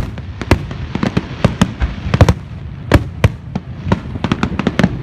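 Fireworks going off: dozens of sharp bangs and pops in quick, irregular succession over a steady low rumble.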